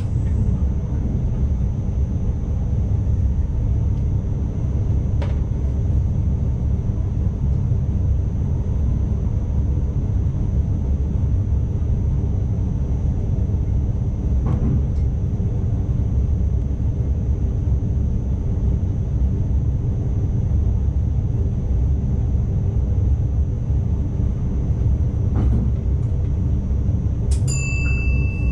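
Steady low rumble of an NS ICMm (Koploper) electric train running at speed, heard from the driver's cab, with a thin, steady high whine above it. A few faint clicks come several seconds apart, and a high electronic tone starts near the end.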